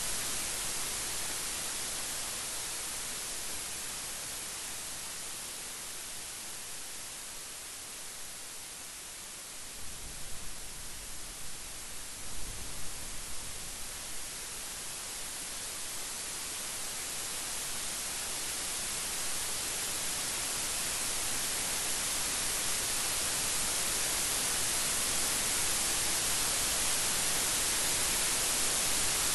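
Steady rain hiss that eases a little, then swells louder toward the end, with a brief low rumble of thunder about ten to thirteen seconds in.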